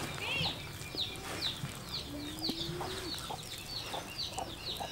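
Birds chirping steadily: a run of short, high, falling chirps, several a second, with one lower drawn-out call about two seconds in.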